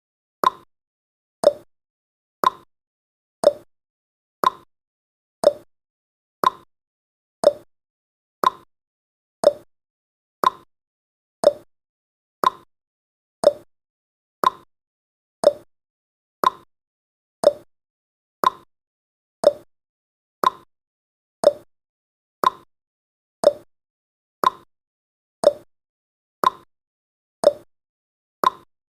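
Countdown timer's tick-tock sound effect: one short click every second, alternating between a higher and a lower tick.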